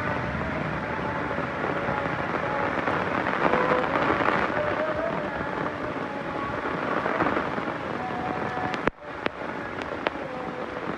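Heavy rain pouring with thunder rumbling under it, a dense steady rush that swells about four seconds in. The sound cuts out for an instant about nine seconds in, then resumes a little lighter with sharp drip clicks.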